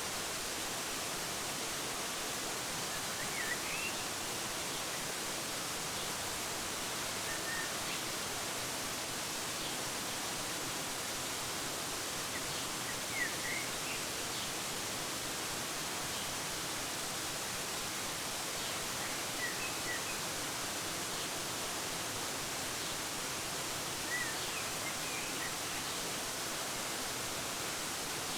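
Steady rushing of a waterfall, with a few short bird chirps breaking through every several seconds.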